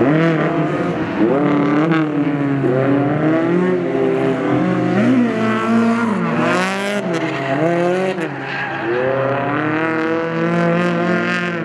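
Drift cars on track, more than one engine revving hard at once, their pitch rising and falling over and over as the drivers work the throttle, with tyres squealing, most strongly about six seconds in.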